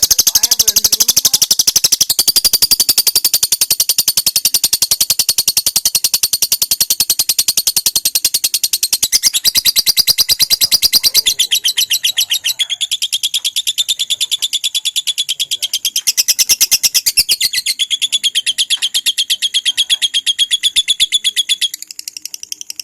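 Lovebird singing one long unbroken 'ngekek' trill: a rapid, shrill chatter of repeated notes that shifts pitch several times without a break and eases off a little near the end. The long, continuous trill is the extended-duration song that lovebird keepers prize.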